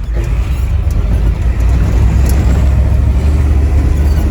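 The 7.3 IDI turbo-diesel V8 of a 1973 Ford F-250 running hard under load as the 4x4 truck pushes through deep snow in second gear. A loud, steady low rumble that builds slightly after the first second.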